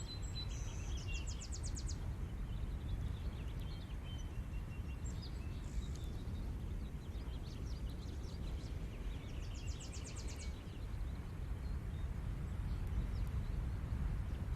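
Steady wash of ocean surf breaking on the shore, with birds chirping over it; twice, about a second in and again about ten seconds in, a bird gives a quick trill.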